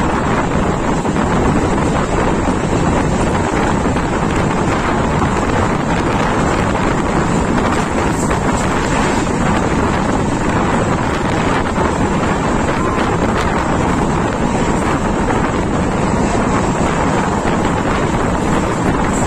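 Wind buffeting the microphone, held out of a moving passenger train's coach window, over the steady running noise of the train on the rails.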